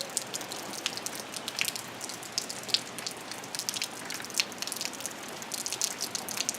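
Rain falling and dripping, with many irregular sharp drop taps on a hard surface over a steady hiss.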